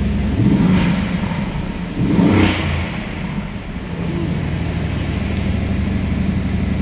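2020 Aston Martin engine idling just after a cold start, blipped twice: a short rev about half a second in and a bigger one about two seconds in, then settling back to a steady idle.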